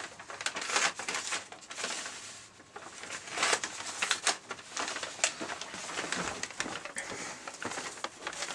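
Paper bags rustling and crinkling in irregular bursts as paper bag puppets are handled.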